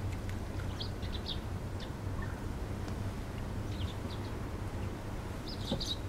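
Birds chirping: short, high chirps in three small clusters, over a steady low rumble.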